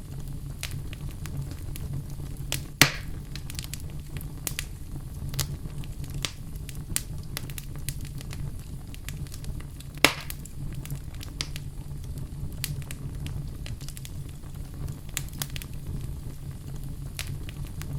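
Log fire burning with a steady low rumble and scattered crackles, with two loud sharp pops, about three seconds in and again about ten seconds in.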